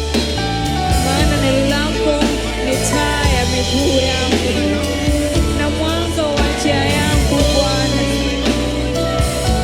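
Gospel worship song played by a band with a drum kit and other instruments, with a sung melody over it.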